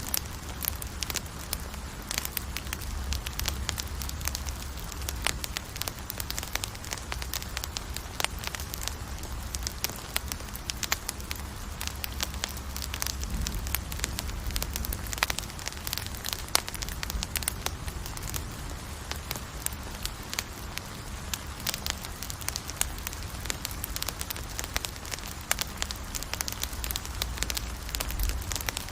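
Campfire crackling and popping steadily, with many sharp snaps over a soft low rumble of the flames.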